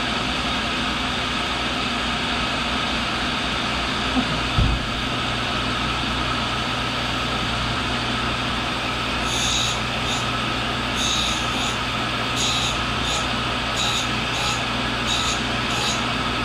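Axelson engine lathe running steadily, taking a light cut on an aluminum workpiece with a carbide tool, with a single low thump about four seconds in. In the second half come short, sharp, high-pitched bursts about once a second.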